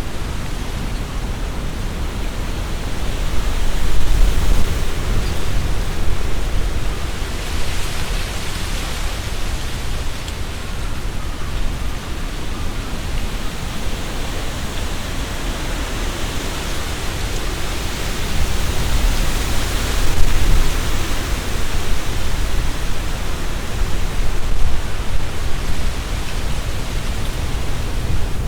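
Strong gusty wind through trees, leaves rustling, with a low rumble of wind buffeting the binaural microphone. Gusts swell about four seconds in and again around twenty seconds.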